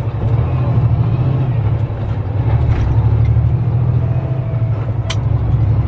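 Tractor-trailer's diesel engine and cab noise, a steady loud drone heard from inside the cab while driving, with one short sharp click about five seconds in.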